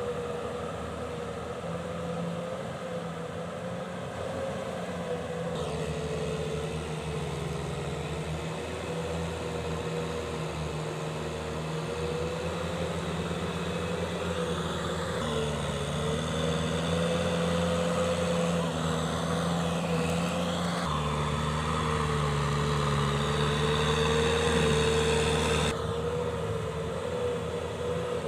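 Kubota M6040SU tractor's diesel engine running steadily, its note shifting a few times.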